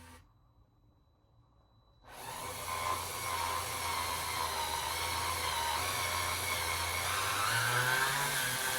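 DeWalt gyroscopic cordless screwdriver running steadily as it drives a mounting screw, starting about two seconds in; its pitch shifts slightly near the end.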